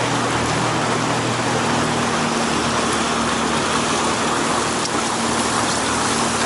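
Steady rushing of river water, with a faint low steady hum underneath.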